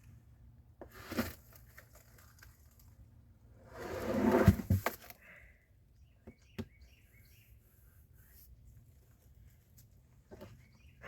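A freshly cut cedar slab being handled: a loud scraping rush about four seconds in that ends in two sharp thuds, with a smaller scrape about a second in. Faint bird chirps follow; the sawmill engine is not running.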